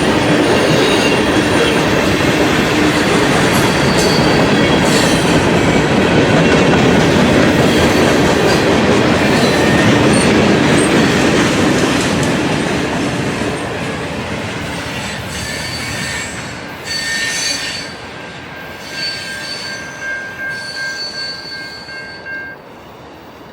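Freight cars rolling past on the rails, a steady loud rumble with high wheel squeal ringing over it. About halfway through the sound starts to fade, with the squeal standing out as the train moves off.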